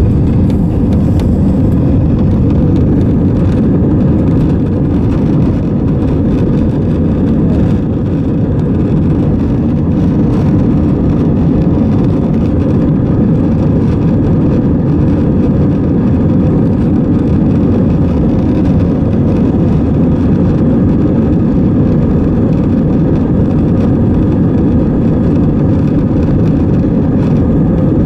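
Steady, loud rumble of an Airbus A320 in flight as heard from the passenger cabin: engine and airflow noise with no change in level.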